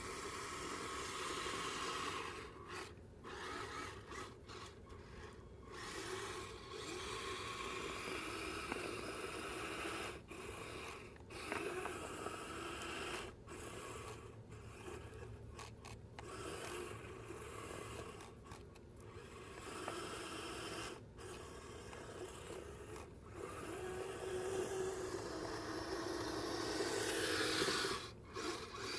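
Stock Kyosho Blizzard RC snowcat driving through slushy snow: the electric motor and gears whine while the tracks churn and scrape the slush. It cuts out briefly and picks up again many times.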